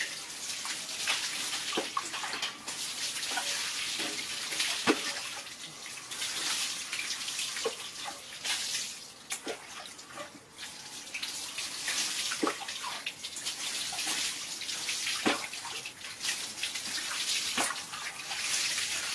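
Water running and splashing as a monkey is bathed, the steady wash rising and falling, with many sharp splashes and drops scattered through it.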